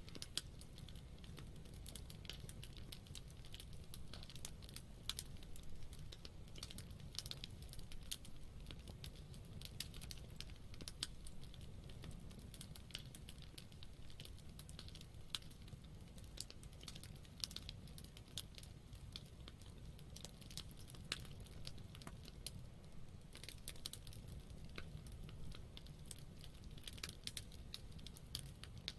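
Wood campfire crackling, with many small irregular pops and snaps over a steady low rumble.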